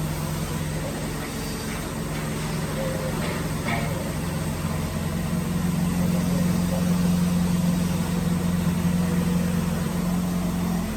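Woodworking drilling machine running steadily with a constant motor hum. The hum cuts off suddenly near the end.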